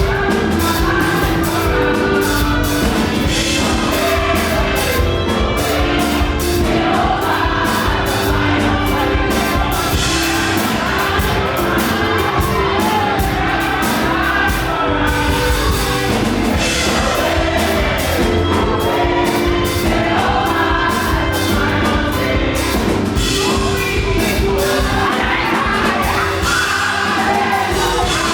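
Live up-tempo gospel praise music played loud, with a group of voices singing over a band and a driving drum beat.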